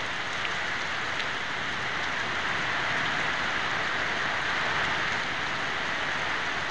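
Heavy monsoon rain falling steadily, an even hiss of downpour.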